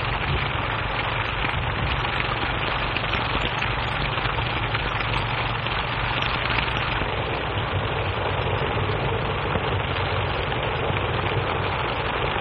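Steady rumble and clatter of a running train on the track, heard through an old, narrow-band film soundtrack.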